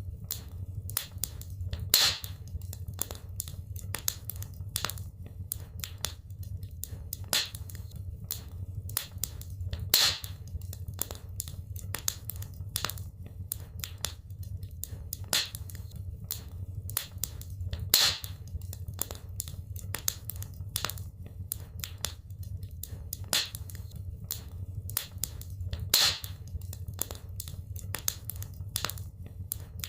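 Wood fire crackling in a fireplace: a constant patter of small crackles and ticks, with a louder pop about every eight seconds, over a steady low rumble.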